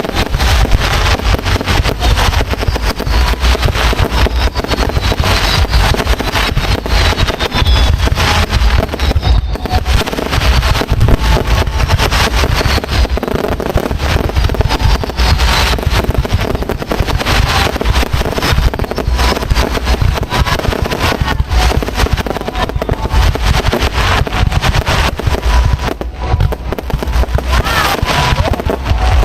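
Fireworks display: a dense, unbroken barrage of bangs and crackles with deep booms underneath.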